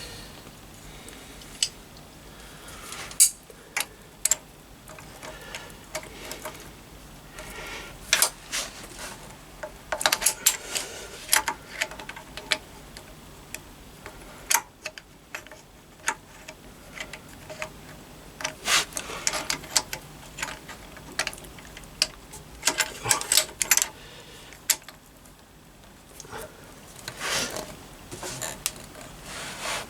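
Irregular clusters of sharp metallic clicks and taps from hand tools gripping and working a rounded nut on a Triumph T140 engine's timing side, with quieter gaps between bursts.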